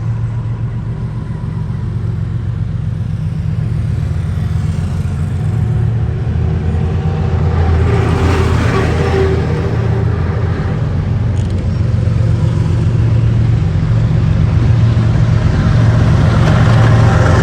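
Locomotive hauling an express train approaching: a steady low rumble with a few held tones over it, growing gradually louder.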